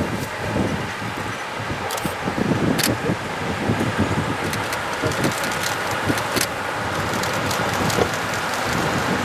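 SU45 diesel locomotive with a train approaching, engine running with a steady rumble that grows slightly louder, with scattered sharp clicks.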